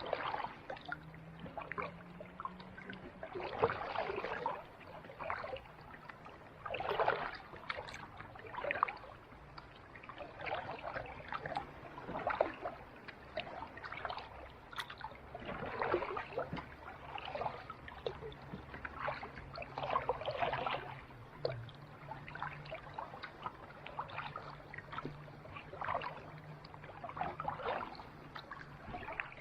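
Kayak paddle strokes in calm sea water: a splash and drip every couple of seconds as the blade dips and pulls, at an unhurried, uneven pace. A faint low steady hum runs underneath.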